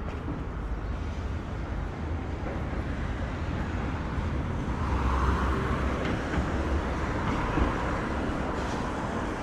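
Road traffic on a city street: a steady low rumble of vehicles, swelling about halfway through as a vehicle passes close.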